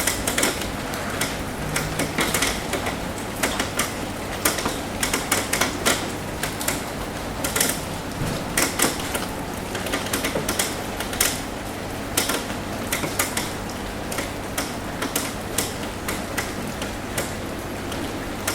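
Rain tapping on a roof: irregular sharp drops and taps, several a second, over a steady hiss of rain.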